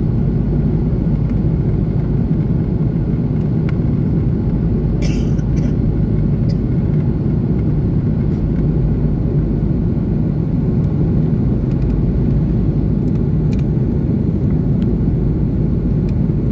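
Steady low roar of an Airbus A330-300's Pratt & Whitney PW4000 jet engines and the rushing air, heard inside the passenger cabin, with a few faint ticks and rattles.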